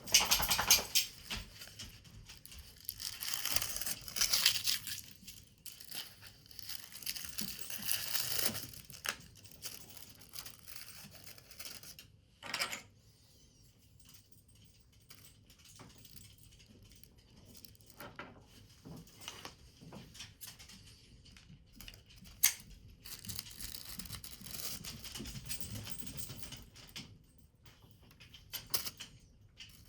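Paper being handled and worked: irregular bursts of rustling and crinkling, with a few sharp taps, the loudest right at the start.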